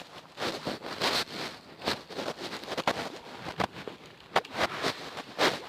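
Fluffy slime being mixed and squeezed by hand, with irregular sticky squishing and crackling several times a second.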